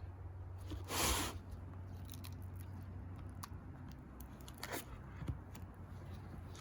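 Paper and photographs being handled: one short rustle about a second in and a few faint clicks and taps, over a low steady hum.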